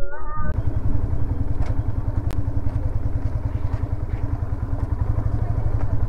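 Yamaha FZS v3 motorcycle's single-cylinder engine running with a steady, pulsing low rumble, with a light click a little over two seconds in.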